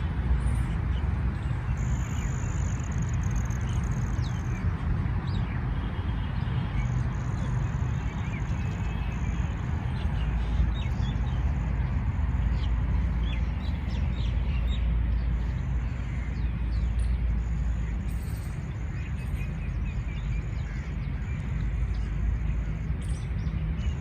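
Birds chirping and calling outdoors, with many short high notes throughout and a thin, high steady note that comes and goes. Underneath is a constant low rumble.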